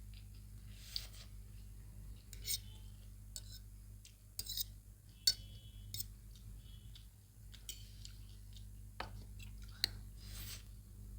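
Eating sounds: scattered clicks and clinks of utensils against a plate and brief chewing and slurping noises, over a steady low hum.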